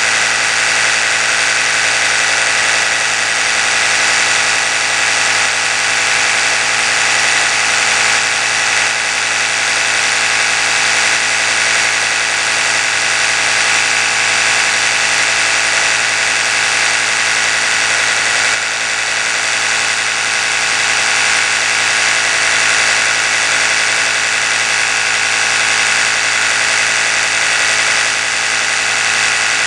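Oral-B electric toothbrush running steadily, an even motor hum that holds the same pitch throughout.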